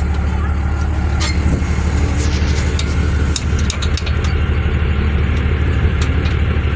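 Engine running steadily with a low, fast pulsing throb, with scattered clicks and rattles on top.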